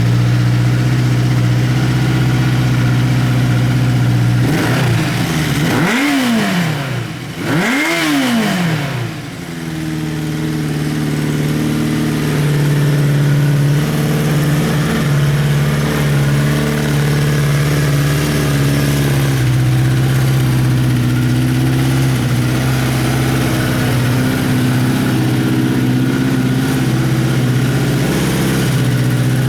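Honda CBX550F2 Integra's air-cooled inline-four engine idling, blipped twice by the throttle a few seconds in, each rev rising and falling quickly, then settling back to a steady idle.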